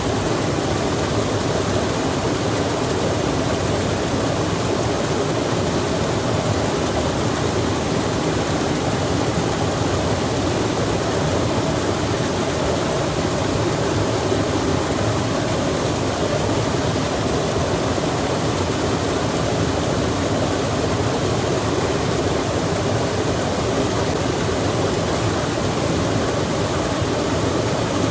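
Flowing water rushing steadily, with no breaks or changes.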